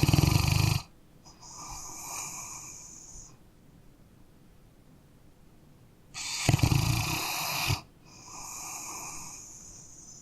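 A sleeping dog snoring: two breaths about six seconds apart, each a loud, rough snore followed by a softer, airy breath.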